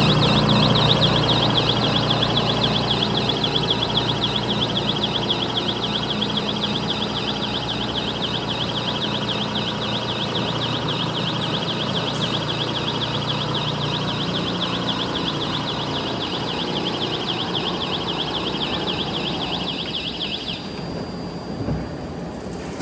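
Factory machinery running: a steady, fast-warbling high whine over a low hum. The hum fades out about two thirds of the way through, and the whine stops shortly before the end.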